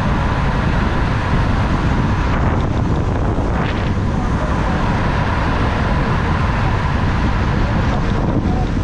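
Steady road and wind noise from a moving car, a constant low rumble with wind buffeting the microphone.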